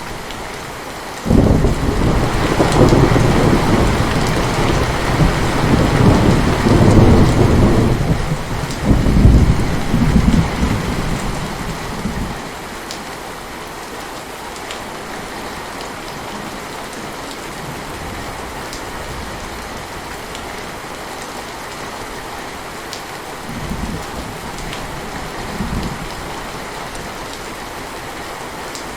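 Heavy rain falling steadily. A long thunderclap breaks out suddenly about a second in and rumbles for about ten seconds before dying away, and two weaker rumbles of thunder follow near the end.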